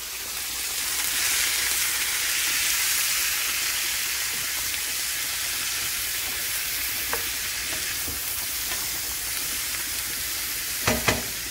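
Home-canned French-cut green beans and their liquid sizzling in a hot cast-iron skillet with onions while a wooden spatula stirs them: a steady hiss that swells over the first couple of seconds, then slowly eases. Two sharp knocks come close together near the end.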